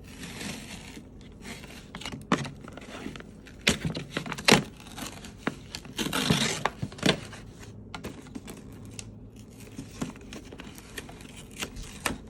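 Toy-box packaging being unwrapped by hand: paper and tape tearing and crinkling in a few stretches, with several sharp knocks as the box is handled.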